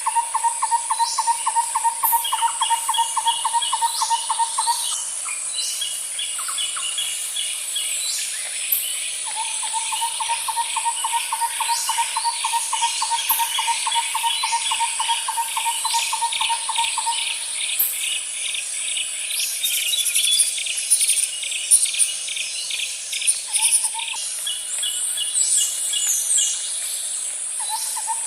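Outdoor nature ambience of several birds calling and singing over a steady high insect drone, with short downward chirps and rapid pulsed trills. A lower rapid trill repeats in runs of several seconds each.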